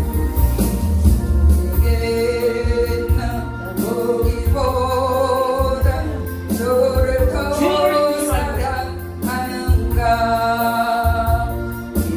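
A solo voice singing a slow gospel song, holding long notes with vibrato, over a karaoke accompaniment track with a steady bass beat; the track is played three steps above its original key.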